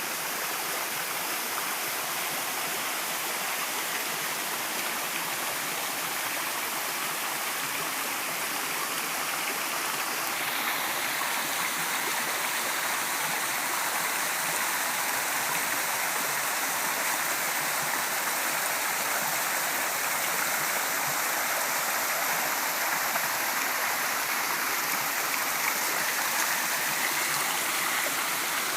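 Waterfall: water falling and splashing in a steady, unbroken rush, its tone shifting slightly about ten seconds in.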